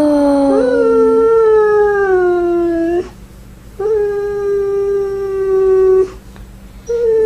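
Siberian husky howling in long, drawn-out calls: three howls with short breaks between them, the first sliding slowly down in pitch, with a second, lower voice overlapping it for about the first second.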